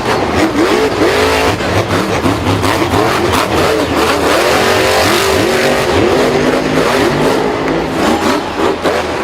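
Motor vehicle engines revving again and again, their pitch rising and falling in overlapping sweeps over a steady noisy background.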